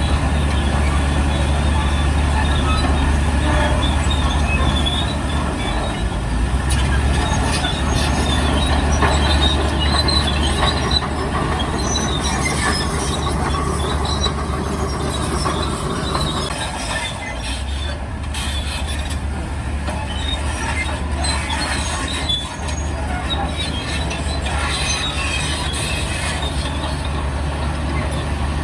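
Heavy tracked earthmoving machinery at work: a steady diesel engine drone under metal tracks squealing and clanking as they move, easing off a little about halfway through.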